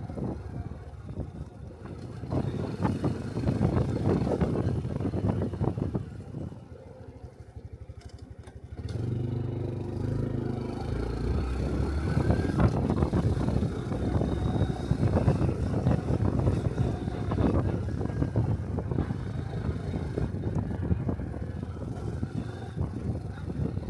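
Small single-cylinder Honda Cub 125 cc motorcycle engine running under way with road and wind noise. It drops to a quiet low idle for a few seconds about a quarter of the way in, then picks up and pulls away again.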